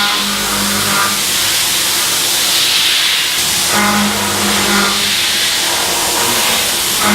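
CNC machining centre running a high-feed milling cut with an Iscar LOGIQ4FEED cutter: a steady loud hiss, with a humming tone that sounds for about a second at the start and again around four seconds in.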